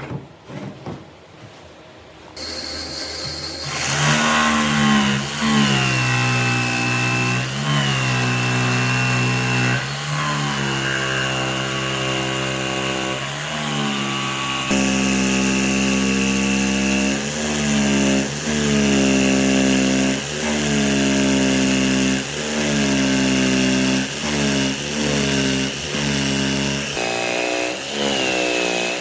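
A power tool motor running, with a pitch that sags briefly and recovers every second or two as it is loaded in a cut through wood. It starts a couple of seconds in, after a few light clicks.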